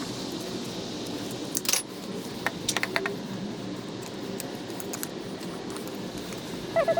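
Metal parts and hand tools clinking as a turbocharger is taken apart: a few sharp metallic clinks about two to three seconds in, and a short ringing clink near the end, over a steady low background noise.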